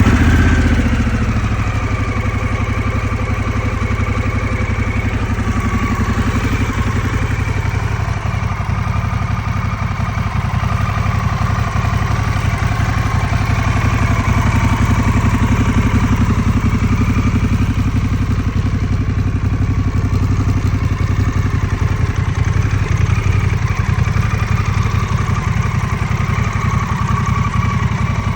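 2022 Harley-Davidson Pan America's Revolution Max 1250 V-twin idling steadily through a Screamin' Eagle exhaust, settling from its start-up in the first second.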